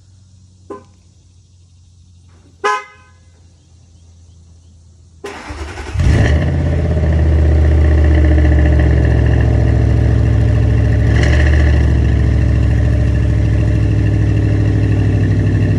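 2006 Lincoln LS's 3.9-litre V8 cranked and started about five seconds in, catching with a brief flare and then idling steadily and loudly through aftermarket racing mufflers. Two short knocks come before it, and the idle swells briefly around eleven seconds.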